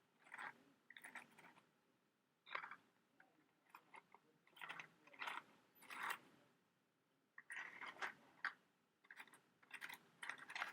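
Faint, close-miked scratches, taps and clicks from handling a matchbox and long matches, in irregular short bursts about a second apart.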